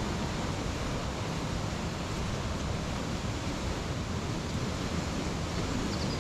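Steady rushing of a waterfall and river rapids in a rocky gorge, an even unbroken roar of falling water.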